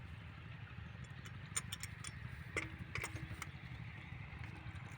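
Diesel engine water pump running steadily with a fast, even low chug, with a few sharp clicks around the middle.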